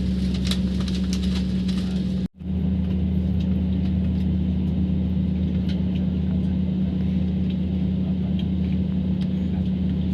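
Steady drone of an airliner cabin, a low rumble with a strong hum from the engines and air systems; it cuts out for a moment a little over two seconds in.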